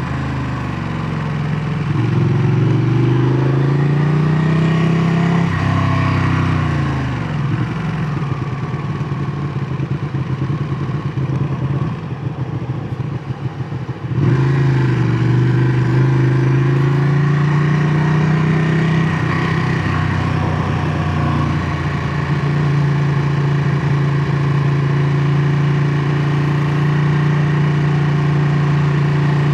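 Ducati Panigale 959's L-twin engine under way: it revs up and drops in pitch several times as if shifting through the gears, then falls to a quieter, uneven stretch. About halfway through it comes back loud and suddenly, pulls up in pitch and settles into a steady run.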